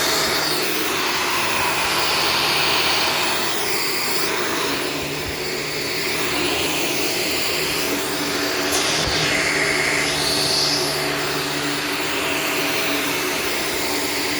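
Shark Stratos upright vacuum cleaner running on carpet. Its motor whirs steadily, and its tone shifts up and down several times.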